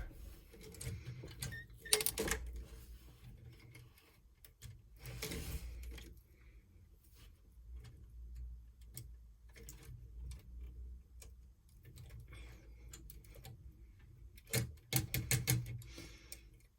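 Plastic Lego pieces being handled and snapped together: irregular clicks and light knocks, with a quick flurry of clicks near the end.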